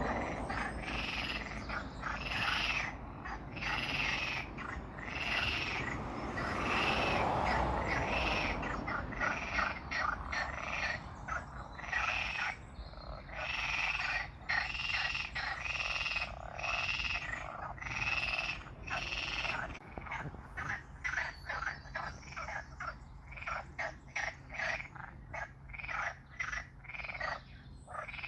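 Frogs calling in a long run of repeated croaks, at first slower and drawn out, then from about two-thirds of the way in as short, quick pulses several a second.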